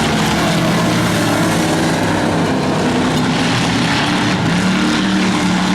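Several race car engines running on a speedway oval under a steady wash of noise, their pitch shifting as they speed up and slow down.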